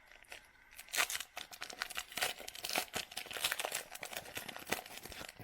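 Trading card pack wrapper being torn open and crinkled by hand, a dense run of irregular crackles.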